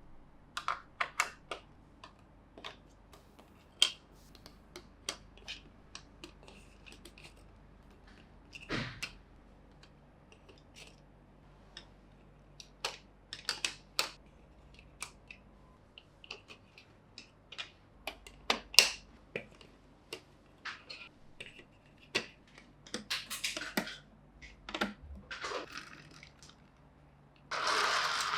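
Plastic Plarail toy train track pieces and parts clicking and knocking as a layout is put together: scattered sharp clicks at irregular intervals, with a few short scraping rustles and a louder scrape near the end.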